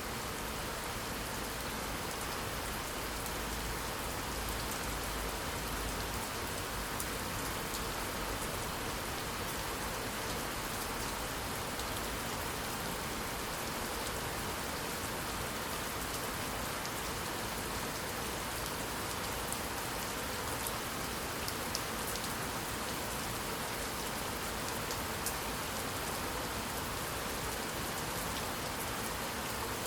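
Steady heavy rain falling and pattering on surfaces, an even hiss with scattered sharper drop ticks.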